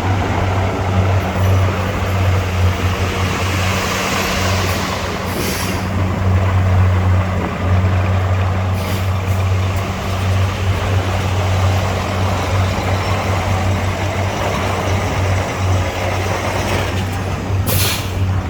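Heavy diesel engine running steadily at a low drone, with two short hisses of released air from truck air brakes, one about five seconds in and one near the end.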